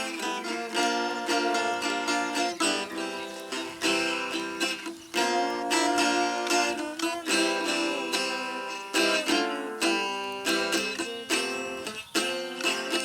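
Acoustic guitar being played without singing, with strummed and picked chords whose notes ring and die away between strokes.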